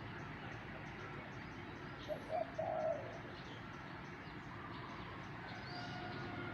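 A dove cooing: a short phrase of low notes about two seconds in, with faint chirps of other birds over steady background noise.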